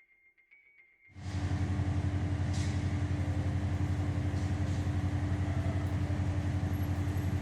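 A heavy engine running steadily, with a fast even throb and a low hum. It starts abruptly about a second in and cuts off abruptly at the end.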